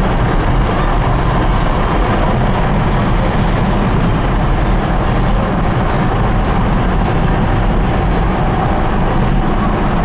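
1970 Ford Bronco running: a steady, loud, low engine drone that holds even throughout, with no pauses or sudden events.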